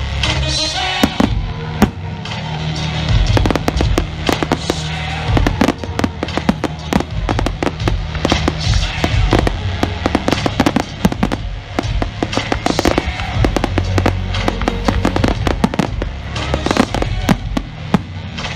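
Public fireworks display: a rapid, continuous barrage of bangs and crackles from shells bursting, with music playing underneath.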